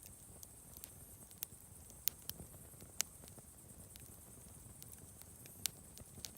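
Wood campfire crackling: irregular sharp pops and snaps from the burning wood, the loudest about two and three seconds in and again near the end, over a soft steady rush of the flames.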